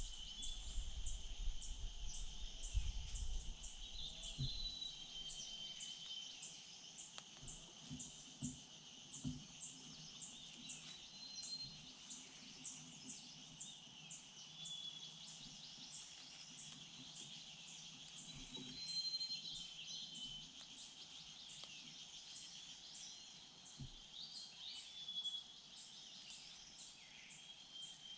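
Woodland ambience: a steady insect drone with a regular high ticking about twice a second, and a few short bird chirps. There is some low rumble in the first few seconds and a few soft thumps.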